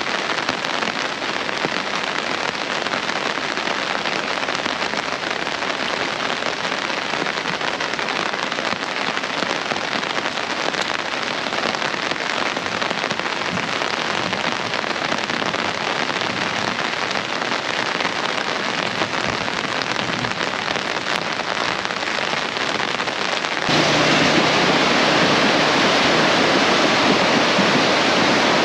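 Steady hiss of rain. About 24 s in, it cuts to the louder, steady rushing of a flash-flooding stream, its muddy torrent filling the whole bed.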